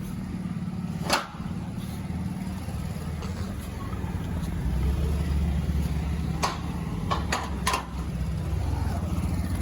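A vehicle engine running steadily with a low hum, with a sharp click about a second in and a quick run of clicks later on.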